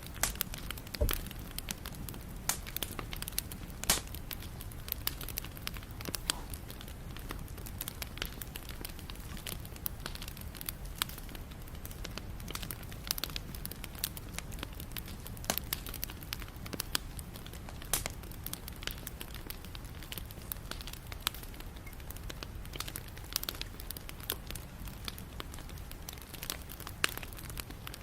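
Wood fire (bonfire) crackling: a steady low rumble of burning with many irregular sharp snaps and pops from the wood, a few of them louder than the rest.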